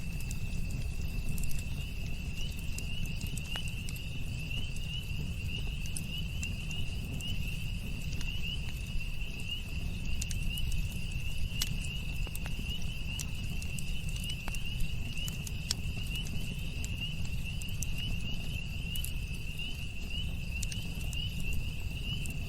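Campfire crackling with scattered sharp pops, over a low steady rumble. Crickets chirp in a continuous high trill throughout.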